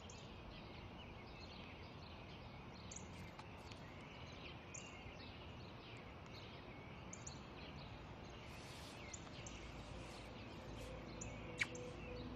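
Small birds chirping sparsely over a faint steady outdoor hush, with one sharper, louder chirp near the end. Soft music tones fade in over the last couple of seconds.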